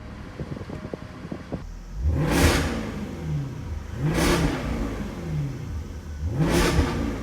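Jaguar XKR-S GT's supercharged 5.0-litre V8 revved three times, each rev climbing and dropping back within about a second and a half, with a few light clicks just before the first.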